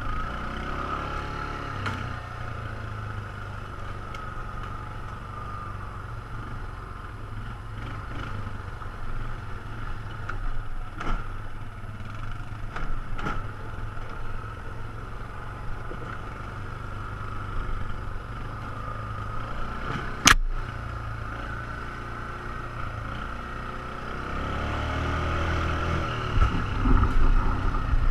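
ATV engine running steadily over a trail, revving up briefly near the start and again near the end. Scattered knocks and one sharp click about two-thirds of the way through.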